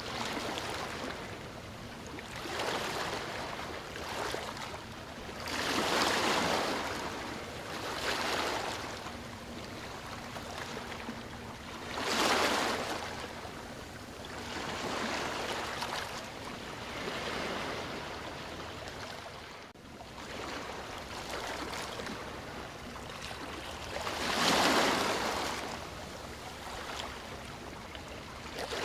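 Sea waves breaking and washing in, one surge after another every few seconds, the biggest about six, twelve and twenty-four seconds in.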